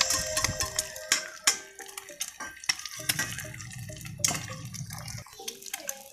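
Eggs frying in hot oil in a stainless steel pan: dense popping and crackling sizzle, with a few sharper knocks of a metal spatula against the pan.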